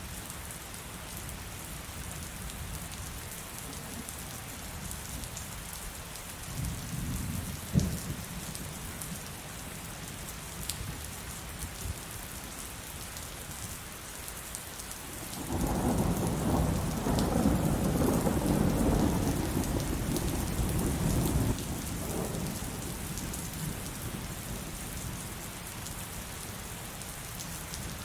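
Steady heavy rain pattering throughout, with a short crack of thunder about a quarter of the way in, then a long, loud rolling peal of thunder for about six seconds past the middle.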